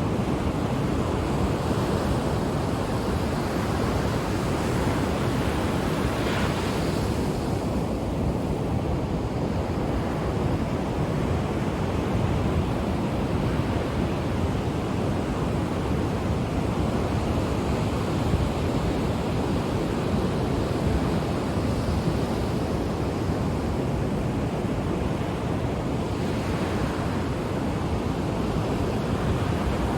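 Ocean surf: a steady wash of waves on the shore, with a wave breaking more brightly about six seconds in and another near the end.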